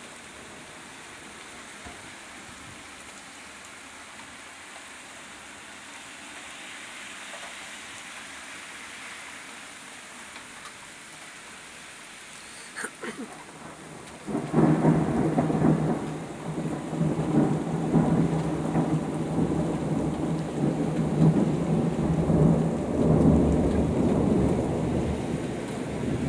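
Thunderstorm: steady rain falling, then a sharp crack about thirteen seconds in, followed about a second later by a loud, long roll of thunder that rumbles on for the rest of the time.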